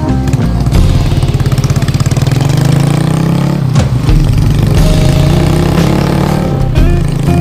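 Motorcycle engine under way, its pitch climbing for a few seconds as it accelerates. The engine dips briefly about halfway through, then runs on.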